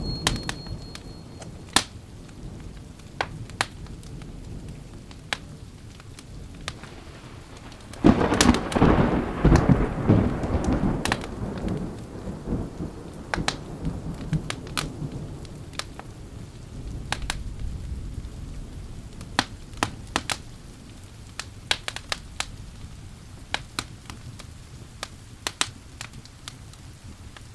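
Steady rain with a thunderclap about eight seconds in that rumbles on for several seconds before dying away. The tail of an earlier rumble fades at the start. Sharp fireplace crackles pop at irregular moments throughout.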